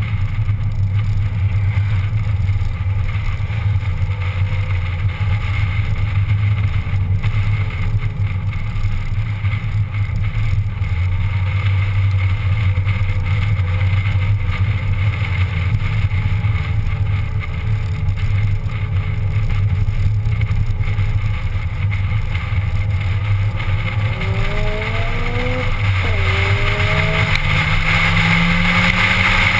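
Car engine and road noise heard from inside the cabin while driving: a steady low drone. Near the end the engine note rises as the car accelerates.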